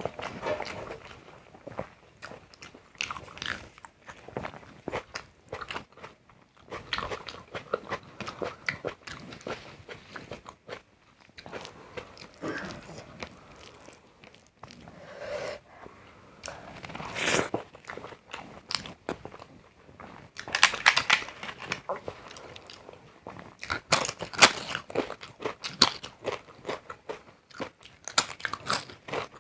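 A person biting and chewing crunchy food, such as papad or raw salad, with irregular runs of crisp crunches throughout.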